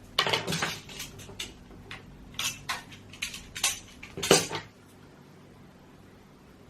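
Hard objects clicking and clattering as they are handled: about a dozen sharp knocks over four and a half seconds, the loudest near the end, then they stop.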